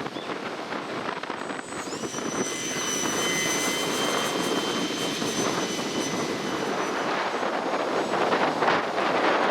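Radio-controlled model airplane's motor whining in flight, its high pitch rising about two seconds in and then holding steady, over the rush of strong wind on the microphone.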